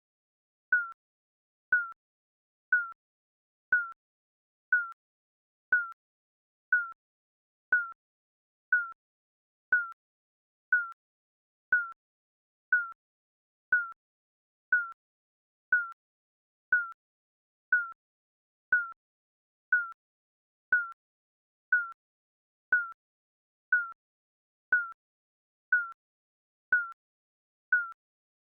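Digital countdown beep: a short electronic tone, slightly falling in pitch, repeating once a second with silence between.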